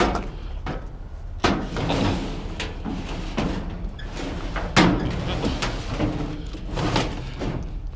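Knocks and bangs of a heavy scrap item being wrestled into a pickup truck bed, with scraping and shuffling between them. The loudest bangs come about a second and a half in, near the middle, and near the end.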